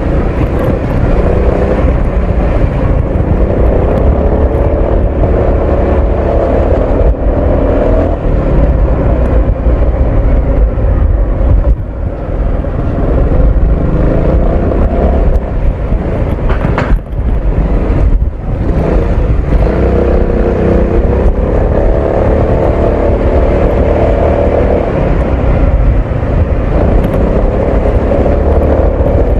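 Honda ADV 350 scooter's single-cylinder engine and exhaust running under way through traffic. The pitch climbs repeatedly as it accelerates, with brief easings of the throttle about twelve seconds in and again around seventeen to eighteen seconds.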